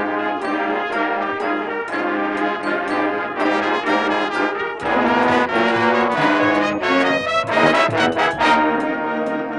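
Marching band playing, led by its brass section, with a louder, fuller passage starting about halfway through and a run of quick rapid notes shortly before it settles back.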